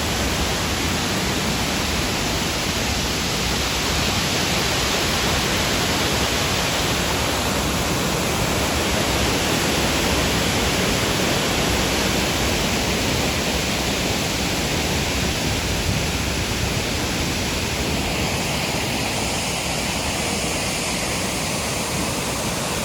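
Waterfall, a wide curtain-shaped drop about 20 metres high, giving a loud, steady rushing of falling water.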